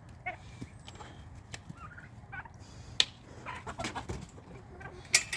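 Midget White turkeys gobbling and calling in short bursts, with two sharp knocks, one about three seconds in and a louder one near the end.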